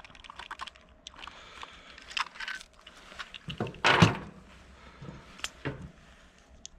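Small metallic clicks and rattles of a Glock 44 pistol and its magazine being handled, with one louder clack about four seconds in.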